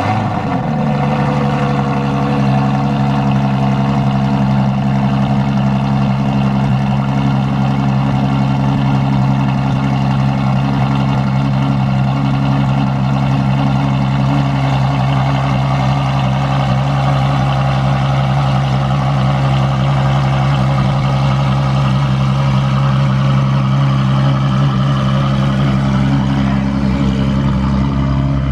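A car engine idling steadily. Its pitch drops and settles within the first second after starting, then holds even.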